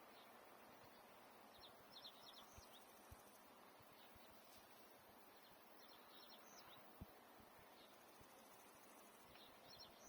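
Small bird chirping faintly: three short runs of quick high notes, about two seconds in, again past six seconds and near the end, over a faint steady hiss of open-air ambience.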